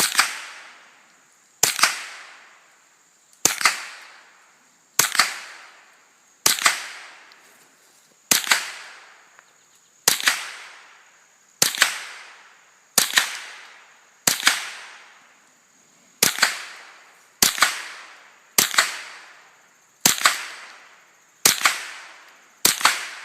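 A semi-automatic gun fired at a steady, unhurried pace: sixteen sharp shots, one about every second and a half, each ringing out in a short echo.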